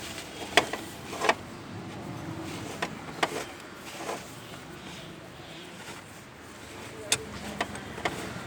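Scattered sharp metallic clinks and knocks, about eight in all, of tools and parts being handled during work on a car, over a steady low background hum.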